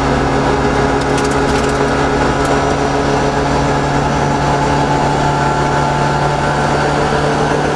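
Toyota Corolla GT 1600 rally car's engine running at a steady pitch, heard from inside the cabin, under a loud noise of tyres and road. A few brief rattling clicks come between about one and two and a half seconds in.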